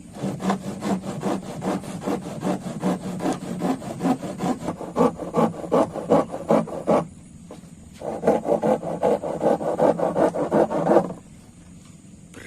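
Handsaw sawing with quick, even back-and-forth strokes, about four a second. It stops about seven seconds in, starts again a second later and stops near the end.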